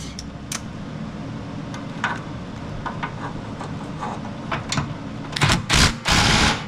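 Hand and power tools working a steel bolt in a mower frame: scattered metallic clicks and clinks, then a short, loud rattling burst of metal clatter near the end.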